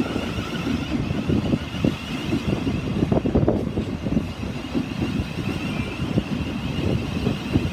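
Thameslink Class 700 electric train moving along the platform: an uneven low rumble with a steady high whine over it.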